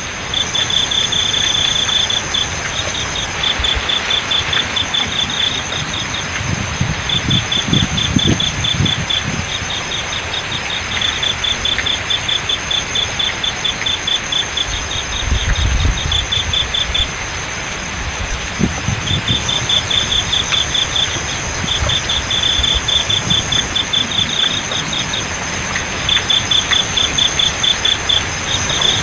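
Crickets chirping in rapid pulsed bursts that stop and start every second or two, over a steady high trill, with an even hiss of running water beneath. A couple of brief low rumbles come and go.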